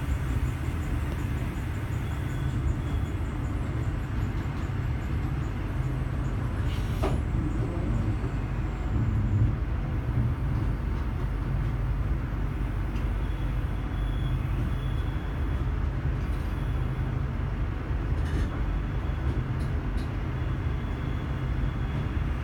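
Passenger train running at steady speed, heard from inside the coach: a continuous low rumble, with a few light clicks.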